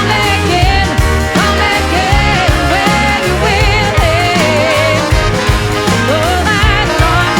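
Soul-rock band playing an instrumental passage: a bass line and drums under a lead melody that bends and wavers in pitch.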